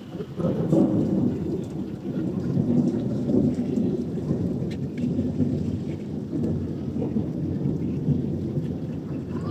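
Thunder rumbling on without a break over steadily falling rain.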